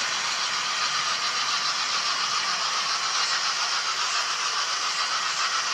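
OO gauge model locomotives running on the layout: a steady whir and rattle of small motors and wheels over the rails.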